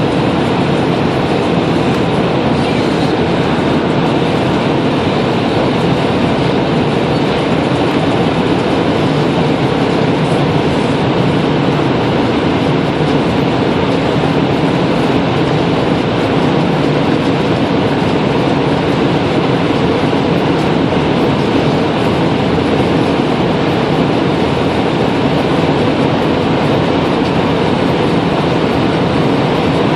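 Steady engine, road and wind noise inside a Ford S-Max 2.2 TDCi four-cylinder diesel minivan at high speed.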